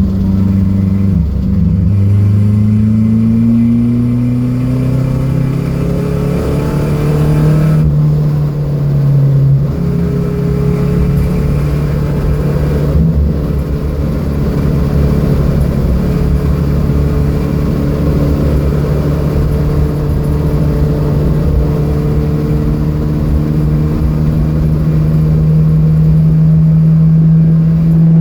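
Datsun B210's four-cylinder engine running hard under acceleration on track. Its pitch rises over the first few seconds, then holds a long steady note that climbs slowly toward the end.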